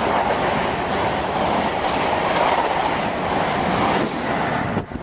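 A Class 43 HST passing at speed: a steady loud rush of wheels and coaches on the rails. About four seconds in, a high whine drops in pitch as the rear power car goes by, and the sound cuts off just before the end.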